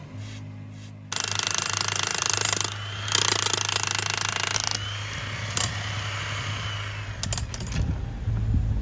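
A loud power tool working on paving stone or concrete. It starts suddenly about a second in, stops briefly near three seconds, then runs on a little quieter.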